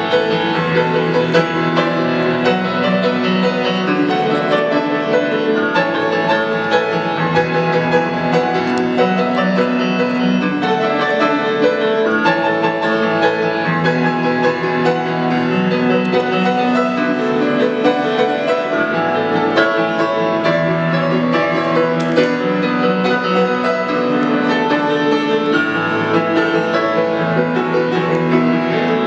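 Piano music, played steadily with full chords.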